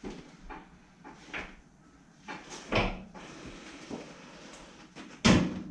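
A few scattered knocks and clunks of things being handled, the loudest about three seconds in and another near the end.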